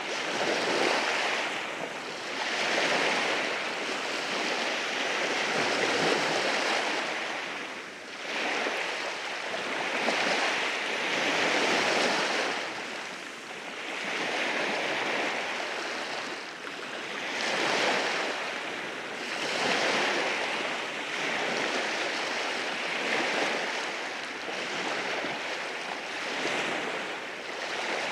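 Waves breaking and washing over rocks on a rocky shore, the surf swelling and falling back every few seconds.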